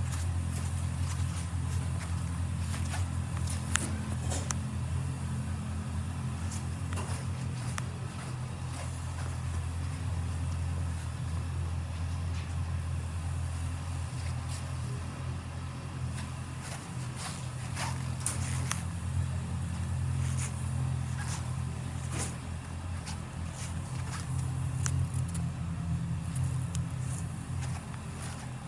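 Honda GL1800 Gold Wing's flat-six engine idling steadily, with a few light clicks over it.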